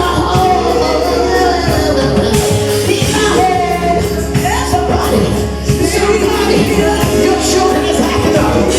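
Live gospel praise music with a band and singing voices, loud and continuous.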